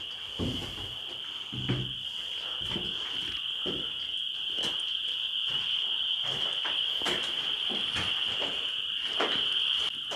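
Night insects chirring in one steady, unbroken high drone, with footsteps on concrete knocking about once a second.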